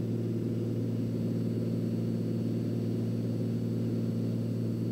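A turbocharged Cessna 206's piston engine and propeller droning steadily in flight, heard from inside the cabin as a low, even hum with no change in pitch.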